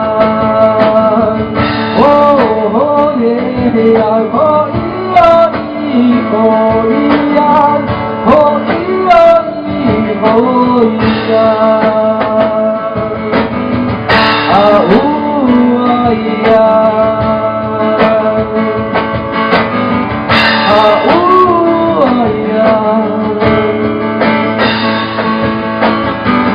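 Live song: a male voice sings wordless chanted vocables over guitar and sustained instrumental backing.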